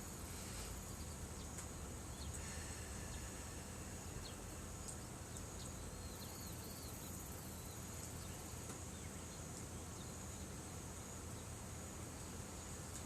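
Steady chorus of insects, a continuous high trill, with a few faint clicks and a brief chirp about six seconds in.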